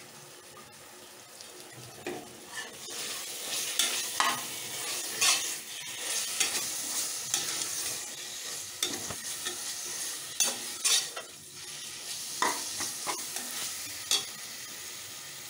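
Onions with ginger-garlic paste and coconut powder frying in oil in an aluminium pressure cooker, sizzling as a spoon stirs them, with repeated scrapes and knocks of the spoon against the pot. The sizzle and stirring pick up about two seconds in.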